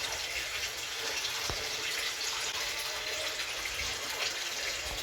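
Steady running, splashing water at a koi pond.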